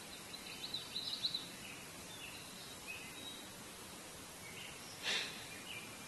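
Small birds chirping: a quick run of high chirps near the start and a few scattered calls after, over a steady background hiss. A brief rustle about five seconds in.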